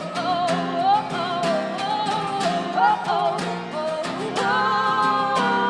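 Live acoustic song: guitars strummed in a steady rhythm under a wavering sung melody, which settles into long held notes near the end.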